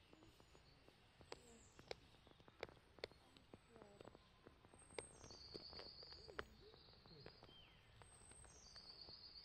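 Near silence, with faint bird song: two short trills, about five seconds in and again near the end, and a few scattered faint clicks.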